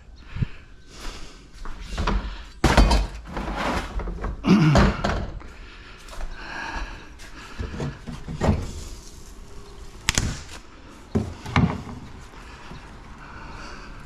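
Irregular clunks and knocks of scrap appliances being handled and taken apart, with clattering between five or so sharper hits.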